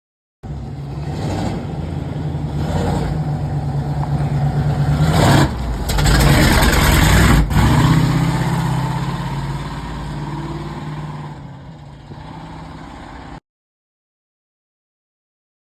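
Vehicle engine running and revving, loudest about six to eight seconds in, then fading away before cutting off suddenly.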